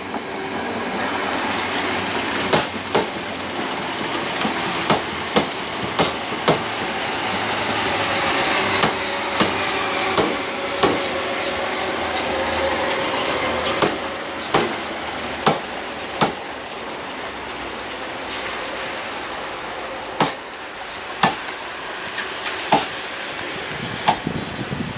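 London Overground electric multiple unit running past along the platform, its wheels clicking sharply over the rail joints every half second to a second over a steady rumble and hiss.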